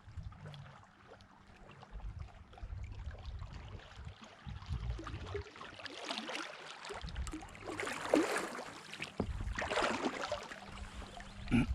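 Canoe paddle strokes splashing in the water, a stroke about every two seconds in the second half, over a low rumble of wind and handling on the microphone.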